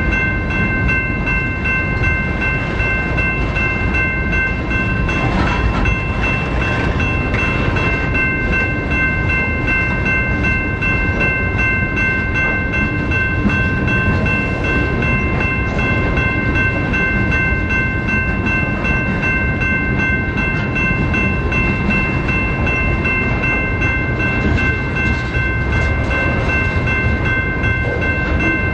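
Freight train rolling past: a steady, loud rumble of railcars with a continuous high-pitched whine held unchanged throughout.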